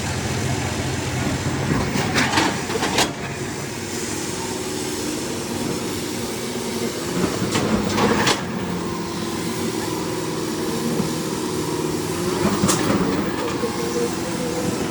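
Diesel tractor engines running steadily under load in a tractor tug-of-war, with a few short sharp noises over them, about two, eight and thirteen seconds in.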